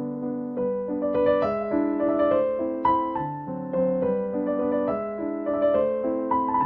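Gentle piano music: notes played in a steady flowing pattern over sustained lower notes.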